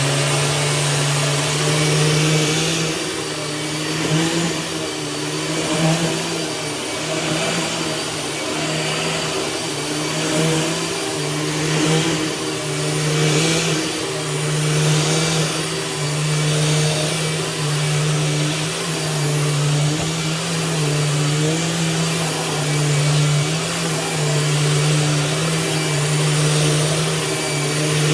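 Orange Dirt Devil vacuum cleaner running as it is worked over a bed. Its steady motor hum swells and dips every second or two.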